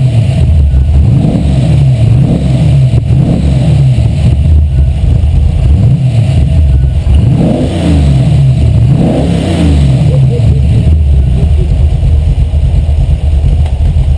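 Ford 302 (5.0-litre) V8 with a hot cam, being revved up and let drop back repeatedly, its pitch rising and falling several times, on one of its first runs.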